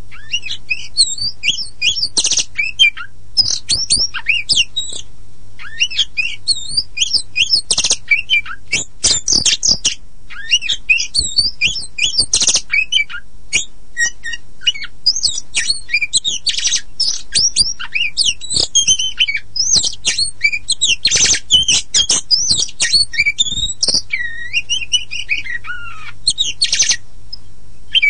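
Oriental magpie-robin (kacer poci) singing without pause: a fast, varied stream of whistles and chirps with frequent sharp clicking notes mixed in. This is a full song, used as bait to set other magpie-robins singing.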